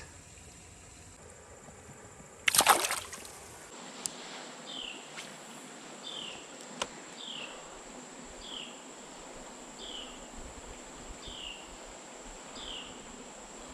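A splash in creek water about two and a half seconds in, then quiet creek ambience with a short, falling chirp repeated about every 0.7 seconds and a faint steady high-pitched whine.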